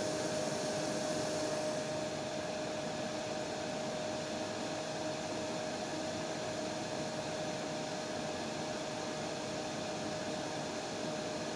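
Hair dryer running steadily: an even rushing hiss with a constant whine. About two seconds in, the hiss loses some of its highest top.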